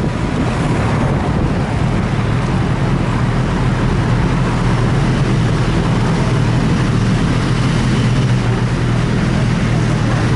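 Motorcycle riding at a steady pace: the engine drones evenly under a constant rush of wind noise.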